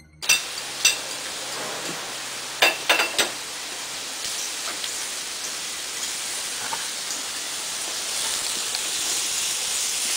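Sliced veal and mushrooms sizzling in a frying pan over a gas burner as they are stirred, the sizzle growing a little louder in the second half. There are a few sharp knocks in the first three seconds.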